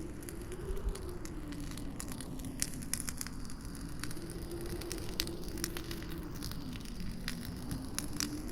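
Campfire crackling, with irregular sharp pops over a low rumble, and a howling wind whose pitch slowly wavers, dipping and rising again.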